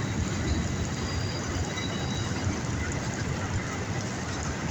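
Empty autorack freight cars rolling past, a steady rumble and clatter of steel wheels on the rails, with a faint high squeal from the wheels over it.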